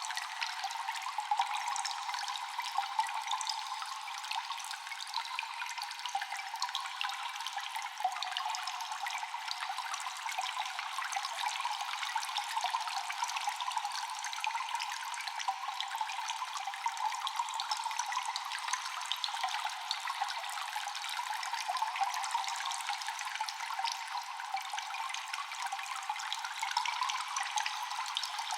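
Cave ambience of echoing, constant dripping water: many small drops, densely scattered over a steady trickling hiss, with no deep sound beneath.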